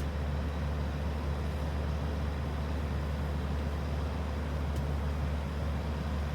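Steady low rumble with a faint even hiss above it, with no distinct events.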